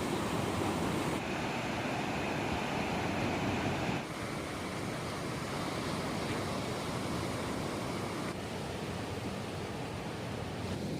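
Steady wash of sea surf. The sound changes abruptly about one, four and eight seconds in, and is quieter after the cut at four seconds.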